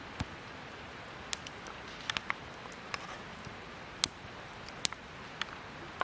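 Curry and rice being dished onto a plate: a dozen or so scattered light clicks and clinks of a spoon against the dish, a few with a brief ring, over a steady low hiss.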